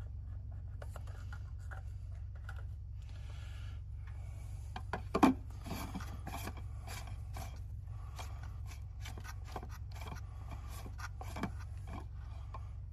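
Clicks, rubbing and scraping as a new cartridge oil filter element is fitted onto its housing cap on a Jeep 3.6L Pentastar engine, with one louder knock about five seconds in, over a steady low hum.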